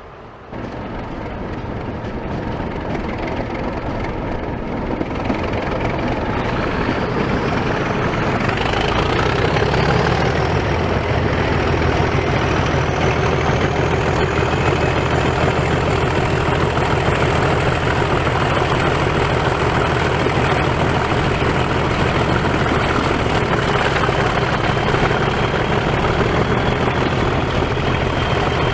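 Diesel locomotive engine starting up and running up to a steady idle: a low rumble with a high turbocharger whistle that rises in pitch over about ten seconds, then holds steady.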